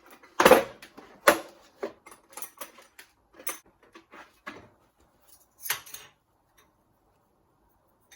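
Steel parallels and workpiece clinking and knocking against a milling-machine vise as the job is set up: two loud clanks near the start, a run of lighter metal clinks, and one more knock later on.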